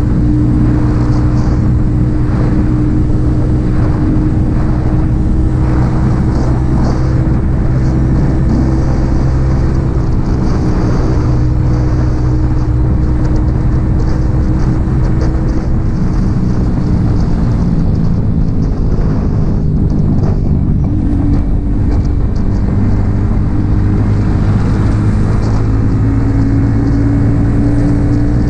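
Yamaha XSR 155's single-cylinder four-stroke engine running through an aftermarket M4 exhaust at a steady cruise. A little past halfway the engine note falls for a few seconds, then rises back and holds steady again.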